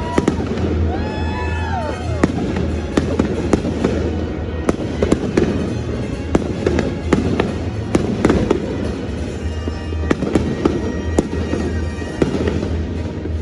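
Firework display: rapid, irregular bangs and crackling bursts throughout, over music playing along with the show.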